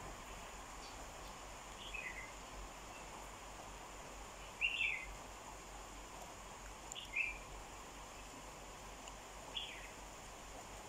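A bird repeating a short falling call about every two and a half seconds, four times, the one near the middle the loudest, over a steady outdoor hiss.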